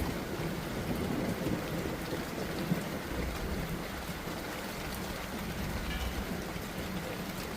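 Steady rain falling as a monsoon thunderstorm tapers off, with a low rumble underneath.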